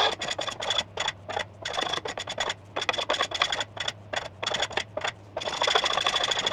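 Hand tool shaving and scraping the ebony splice of a snooker cue into round. It makes short scraping strokes, about three a second, that run into one longer continuous scrape about five and a half seconds in.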